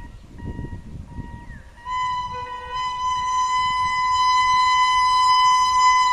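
WAP-5 electric locomotive's horn: short intermittent hoots over a low rumble, then one long steady blast from about two seconds in that grows louder as the train approaches.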